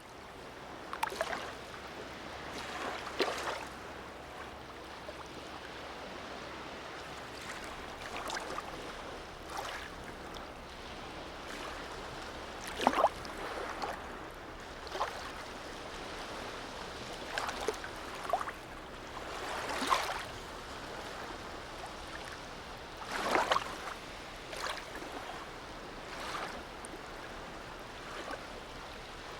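Small waves in a harbour lapping and splashing, irregular little slaps every second or few over a steady wash of water.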